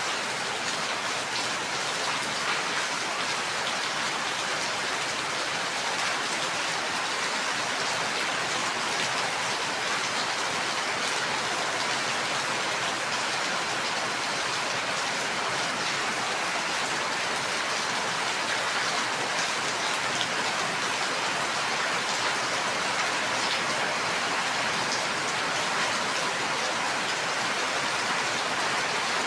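Steady rain, a dense even hiss of falling drops with fine ticks of drops striking a surface.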